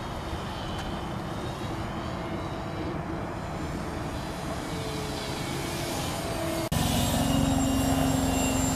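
Radio-controlled model airplane's motor running in flight, a steady drone whose pitch drifts a little as the throttle changes. About seven seconds in it cuts abruptly to a louder, steadier drone.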